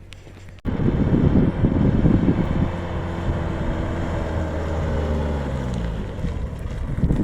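Wind buffeting the microphone, a loud low rumble that starts abruptly about half a second in.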